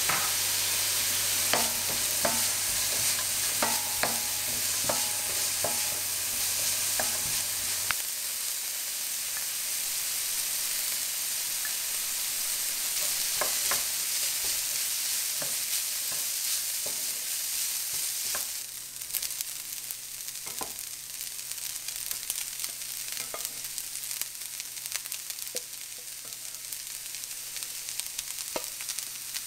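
Diced vegetables sizzling as they fry in a stainless steel frying pan, stirred with a wooden spoon that scrapes and taps against the pan now and then. About two-thirds of the way through, the sizzle drops to a quieter level.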